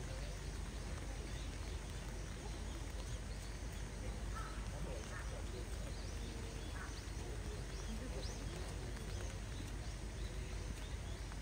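Steady hiss of falling rain, with faint distant voices and a few short high chirps scattered through it.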